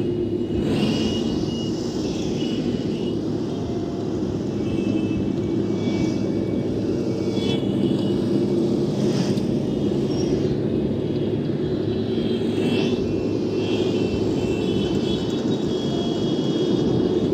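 A steady, even low rumble like an engine or traffic drone, with faint thin high tones and soft whooshes drifting over it.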